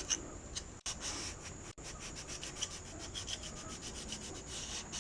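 Brillo pad scrubbing the WD-40-wetted metal channel of a VW Beetle sunroof track in quick back-and-forth strokes, working grime and paint overspray out of the track.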